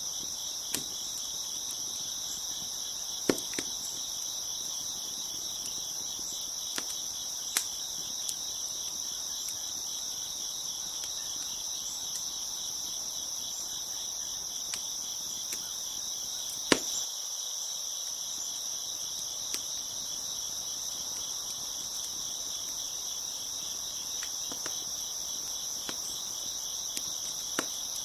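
A steady chorus of chirping crickets, with scattered sharp pops and snaps of a crackling wood fire, the loudest one a little past halfway.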